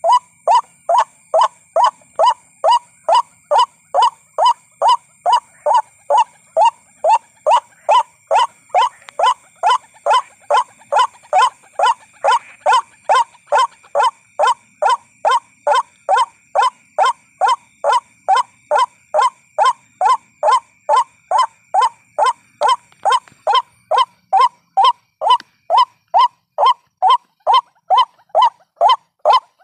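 White-breasted waterhen calling, one short bending note repeated monotonously about twice a second without a break.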